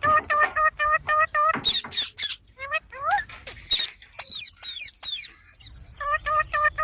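Ringneck parrot calling: a fast run of short repeated notes, about six a second, then rising chirps and shrill screeches, then another fast run of notes near the end.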